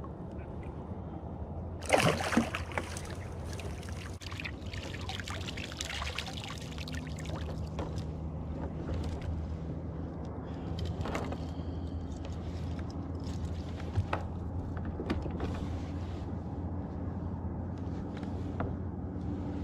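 Water splashing and trickling around a kayak, with a loud splash about two seconds in and smaller splashes after it, over a steady low hum.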